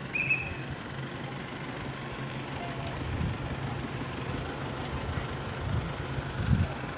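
Steady low engine hum of a moving vehicle, with a few low thumps, the loudest near the end, and a short high tone just after the start.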